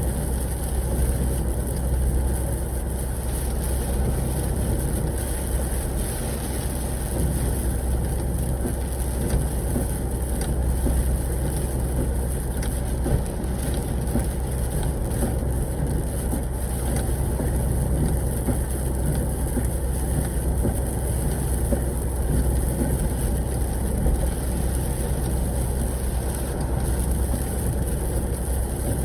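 Steady drone of a semi-truck's engine and road noise heard from inside the cab while driving, a constant low rumble with no sudden changes.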